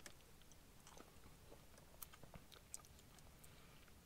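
Near silence with faint, soft chewing of a mouthful of sauce-covered fried potato chip, with a few small mouth clicks.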